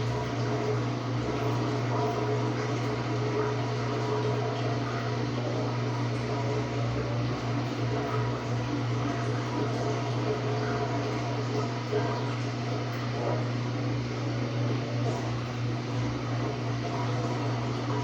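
Samsung WA45T3200AW top-load washer running steadily with a constant low motor hum.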